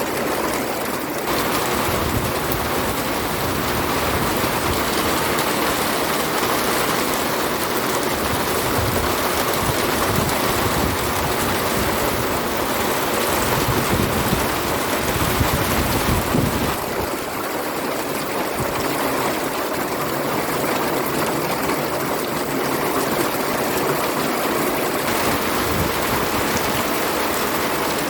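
Heavy rain pouring down in a steady hiss, with a low rumble underneath that stops about two-thirds of the way through.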